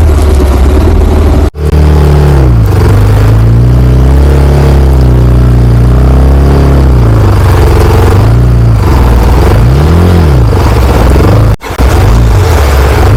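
Motorcycle engine being revved up and down over and over, its pitch rising and falling in repeated swells. The sound cuts out briefly twice, near the start and near the end.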